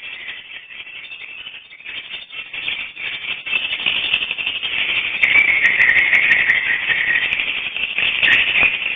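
Swiftlet calls: a dense, high-pitched chattering chorus of many overlapping chirps that grows louder and thicker about halfway through.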